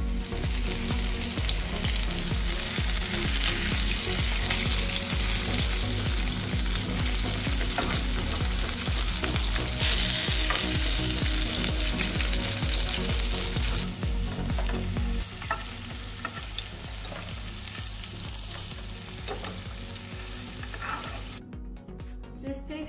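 Prawns sizzling in hot oil in an aluminium wok while a metal turner stirs and scrapes them around the pan. The sizzling is loud for the first half, weakens about two-thirds of the way through, and cuts off near the end.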